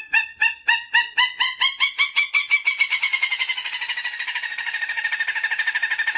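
An animal's call of rapid repeated pulsed notes that speed up and run together into a fast, even trill after about three seconds.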